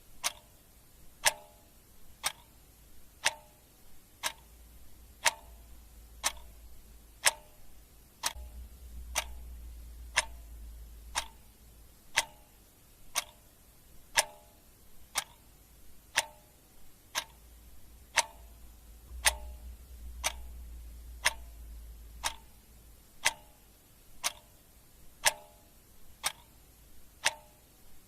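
Clock ticking sound effect: one sharp tick each second, alternating louder and softer in a tick-tock pattern.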